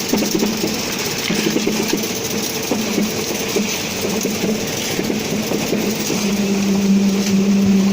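Truck-mounted concrete mixer pump running, its engine and pumping machinery giving a rapid clatter. About six seconds in a steady drone comes in and the sound grows a little louder.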